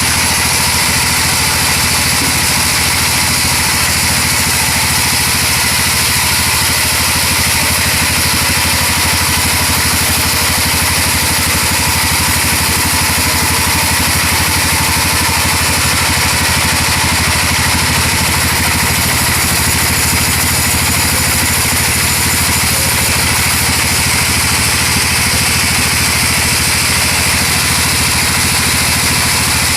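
Sawmill machinery running steadily: an engine-driven band saw mill, with a constant engine hum and a steady high hiss that does not rise or fall.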